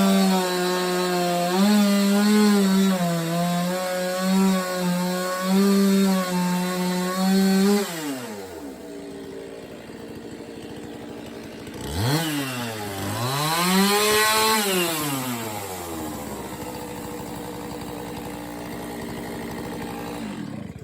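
Gas chainsaw held at full throttle cutting through wooden slabs, its pitch dipping slightly as the chain bites. About eight seconds in the throttle is released and it falls to idle. It is revved up and back down once more, then idles until the sound cuts off suddenly at the end.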